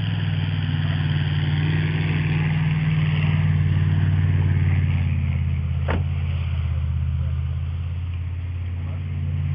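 Truck engine running steadily with a low drone and a hiss over it, and a single sharp click about six seconds in.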